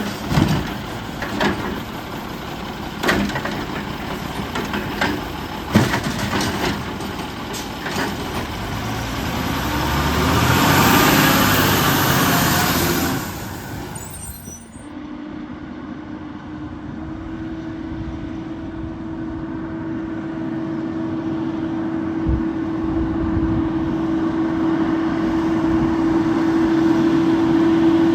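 Autocar WX64 garbage truck with a Heil 7000 body working a trash pickup. Scattered knocks and bangs come first, then a loud hissing, crunching surge from about nine to fourteen seconds in. After that the truck settles into a steady hum that steps up slightly in pitch a few seconds later.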